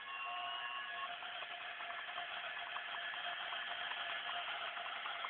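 Battery-powered toy train running on its track, its small electric motor whirring steadily with faint rapid ticking from the wheels.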